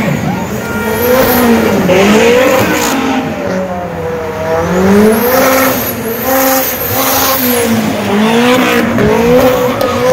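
Car engine revving up and falling back over and over, about once every second or two, with tyre squeal from spinning wheels, as in a burnout.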